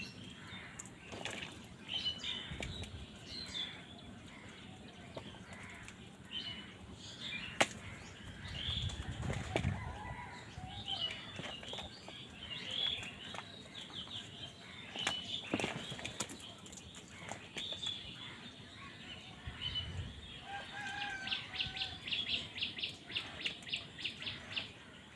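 Crows flapping their wings and scuffling, with scattered short high chirps and sharp clicks throughout; near the end a fast, even run of high rattling notes.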